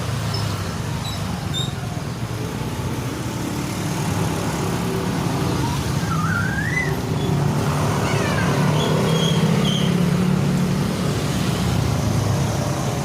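A steady low engine hum, like a motor vehicle running nearby, getting slightly louder in the middle. A faint, short, wavering rising call is heard about six to seven seconds in.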